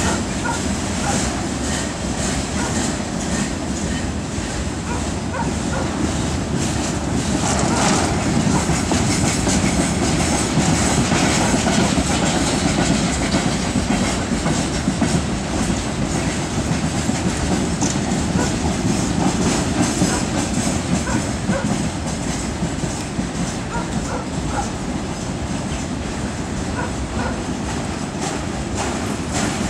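Freight train wagons rolling past at low speed, their wheels clattering steadily over the rail joints.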